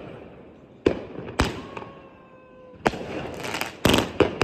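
500-gram firework cake firing shots: sharp bangs of the breaking shells, irregularly spaced about a second apart at first and then closer together near the end, with crackling between them.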